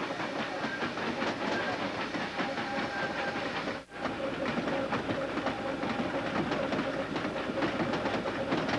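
A moving steam train: a steady running rumble and hiss with wheels clicking over the rail joints. The sound drops out sharply for a moment about four seconds in, then carries on.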